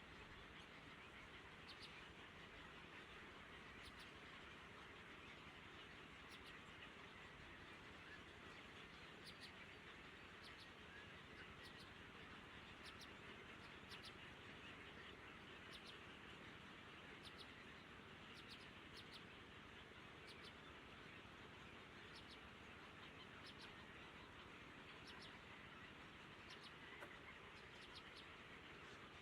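Faint, scattered short bird chirps over a steady low hiss, close to silence.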